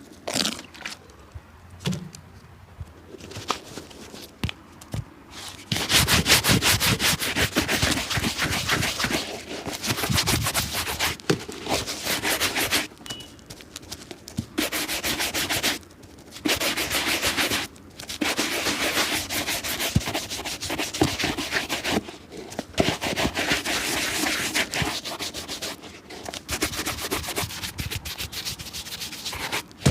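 Rapid hand scrubbing strokes on a shoe, in bouts of a few seconds with short pauses between them, after a few light taps and knocks in the first seconds.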